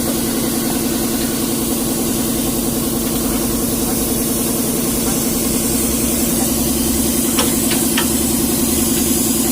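Hino truck's diesel engine idling steadily, with three light clicks near the end.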